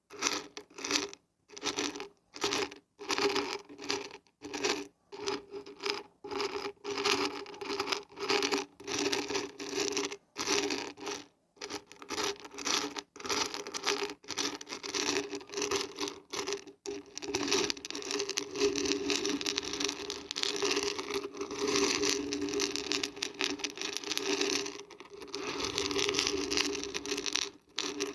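Dried beans and barberries being shaken, a dry rattling and rasping that comes in quick shakes about twice a second, then turns into a nearly unbroken rattle for the second half.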